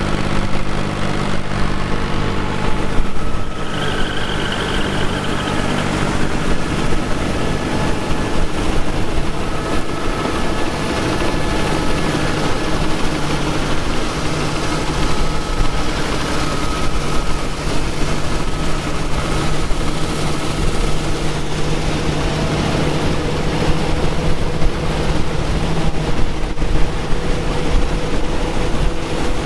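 Engine of vintage farm machinery running steadily at an even speed, with a faint higher whine coming and going.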